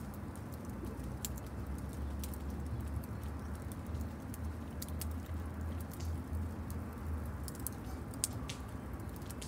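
Campfire crackling, with irregular sharp pops and ticks over a steady low rush.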